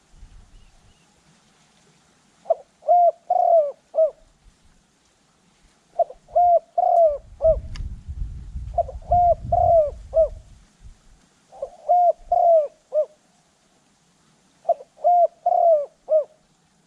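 Spotted dove cooing: five phrases of about four notes each, repeated every few seconds. A low rumble runs under the middle phrases.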